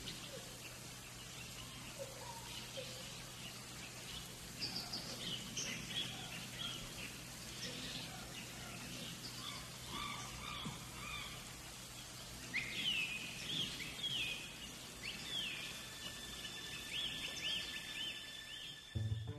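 Birds chirping and calling over a faint steady low hum, with a run of quickly repeated arching calls in the second half.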